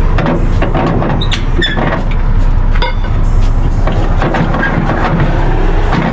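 Steady low rumble of an idling diesel semi-truck, with scattered knocks and clanks and a few short high chirps.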